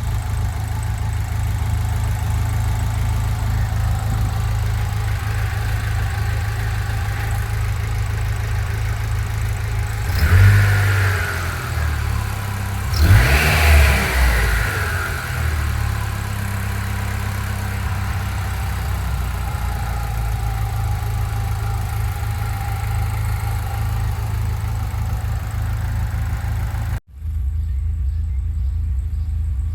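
BMW M44B19 four-cylinder engine of a 1997 E36 318ti running at idle, revved briefly twice, about ten seconds in and again a few seconds later. The owner describes the idle as rough, which persists despite new injectors, coil, plugs, crank and cam sensors and a vacuum-leak check.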